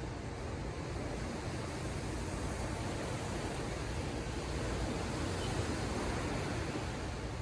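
Ocean surf washing ashore, a steady rush of breaking waves that swells a little past the middle.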